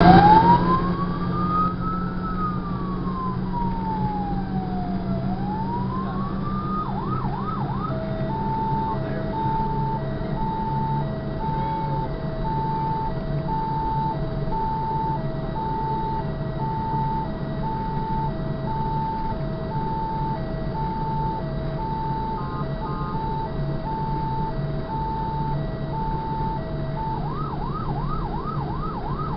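Fire engine's electronic siren, first a slow wail rising and falling, then a short burst of rapid yelp. From about 8 seconds it switches to a long high-low two-tone pattern, and goes back to yelp near the end. A steady engine and road drone runs underneath.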